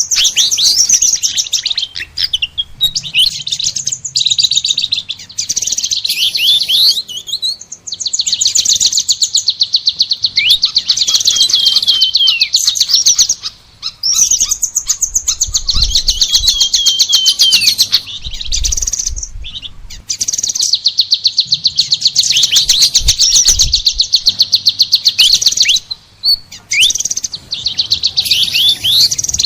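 Songbird song led by a kolibri ninja (sunbird): long runs of very rapid, high-pitched trilling broken by short gaps, with quick sweeping notes mixed in.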